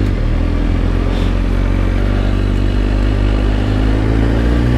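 2004 Kawasaki ZX-10R's inline-four engine running steadily at low revs, its pitch creeping up slightly near the end.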